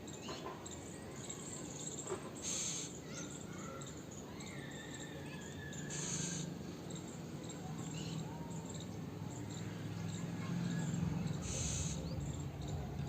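Faint chirps and short whistled calls of small birds over a steady high insect buzz, with three short bursts of high hiss spaced a few seconds apart.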